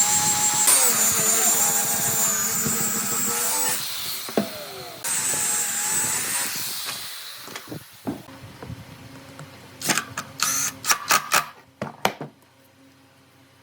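A handheld electric power tool runs with a high whine, shuts off and winds down about four seconds in, then runs again briefly before fading. Near the end come a quick series of sharp knocks.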